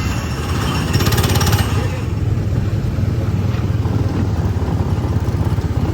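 Small gasoline engines of go-kart-style ride cars running with a fast, steady pulsing.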